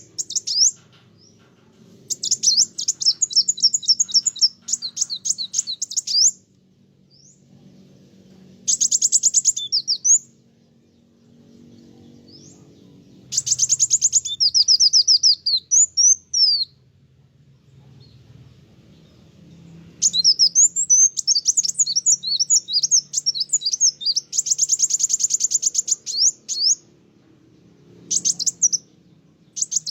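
Kolibri wulung sunbird singing vigorously: runs of rapid, high-pitched chirps and trills a few seconds long, broken by short pauses, with the longest run near the end.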